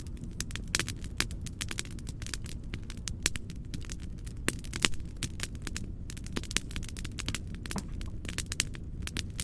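Wood fire crackling: irregular sharp pops and snaps, a few louder than the rest, over a steady low noise.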